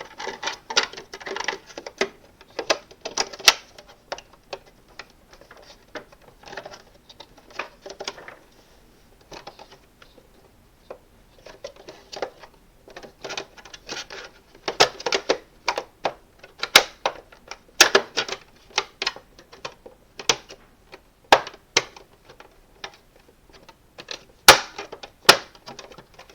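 Hard plastic parts of a Hoover vacuum cleaner clicking, rattling and knocking as its secondary filter is worked into the grooves of its housing. The clicks are irregular, with a few sharper, louder ones in the second half.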